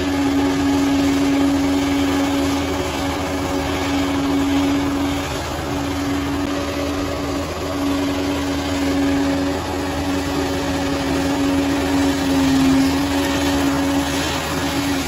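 Bulldozer's diesel engine running steadily, a continuous drone with one strong held tone.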